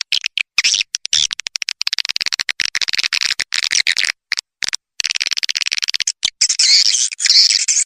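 Recorded edible-nest swiftlet calls: dense, rapid high-pitched twittering and clicking trills with brief gaps around the middle, growing louder near the end. This is a swiftlet lure sound, played to attract swiftlets to roost and nest in a swiftlet house.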